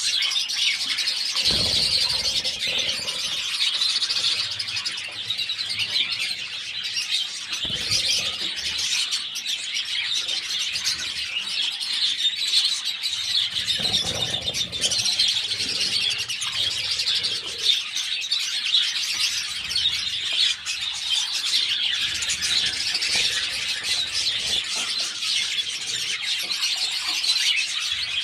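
Budgerigars chattering and chirping without a break, a dense, high warble of many quick notes, with a few brief low rustles mixed in.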